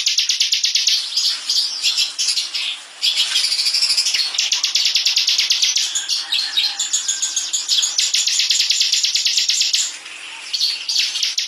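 Bar-winged prinia (ciblek) singing a fast, dense trill of rapid high notes in long runs, the machine-gun-like 'ngebren' song, broken by short pauses about three seconds in and near the end.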